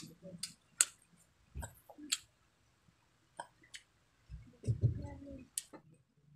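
A person chewing a mouthful of rice close to the microphone, with irregular sharp wet mouth clicks and smacks. There is a short low sound about four and a half seconds in.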